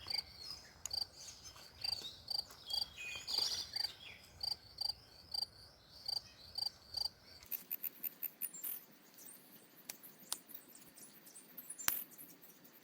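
An insect, most likely a cricket, chirps steadily about twice a second, with a short bird call over it around three seconds in. About halfway through the chirping stops abruptly, and scattered sharp clicks and light rustling follow.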